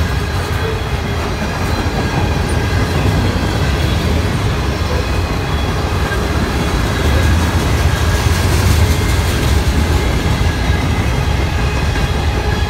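Cars of a mixed CSX freight train (boxcars, tank cars and covered hoppers) rolling past at speed, a steady heavy rumble and clatter of steel wheels on the rails, swelling a little midway.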